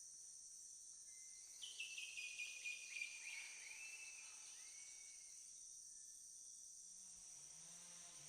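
Quiet rainforest ambience: a steady, high-pitched insect drone, with a run of short high chirping calls, falling in pitch, from about one and a half to four seconds in. A low hum comes in near the end.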